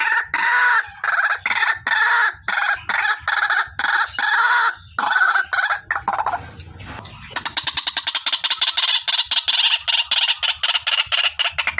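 White-breasted waterhen (ruak-ruak), a female by the uploader's account, calling: harsh, loud calls repeated about two to three a second. After a short lull about six seconds in, it breaks into a fast run of short notes that slowly falls in pitch.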